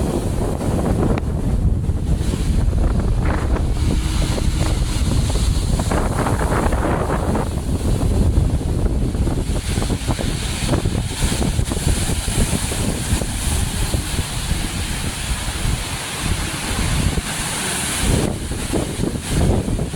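Strong sea wind buffeting the microphone with a heavy low rumble, over the steady hiss of surf that swells and fades as waves come in.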